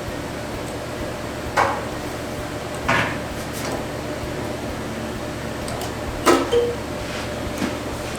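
A few short, sharp clanks and clicks of metal being handled in a workshop, the loudest a double knock near the six-second mark, over a steady background hum.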